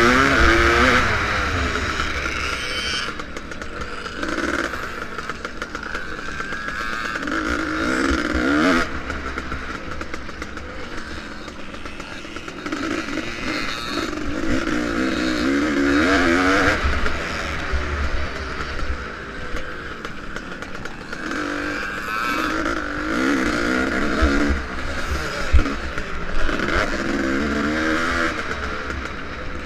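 Vintage motocross motorcycle engine racing, its pitch rising and falling over and over as the throttle is opened and closed through the course.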